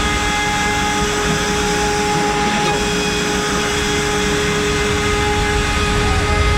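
CNC router spindle running at 24,000 rpm, an 8 mm cutter milling a 3D shape into wood. It makes a steady whine over a rough cutting noise.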